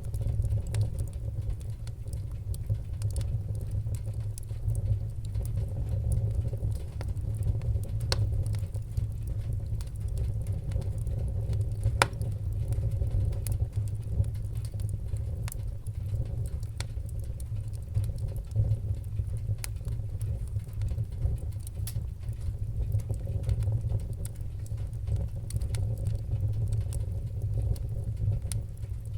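Fire crackling, with scattered sharp pops over a steady low roar and one louder pop about twelve seconds in.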